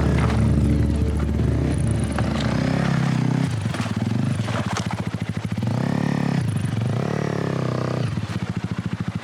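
Single-cylinder Honda CRF250L dirt bike engine running at low revs, with throttle blips rising and falling twice in the middle, and scattered clattering knocks.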